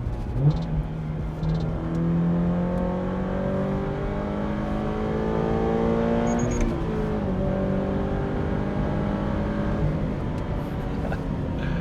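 Toyota GR86/Subaru BRZ's 2.4-litre flat-four running through a Borla S-Type cat-back exhaust, pulling up through a gear with the pitch climbing for about six seconds. The pitch drops at a shift and the engine carries on at steadier revs.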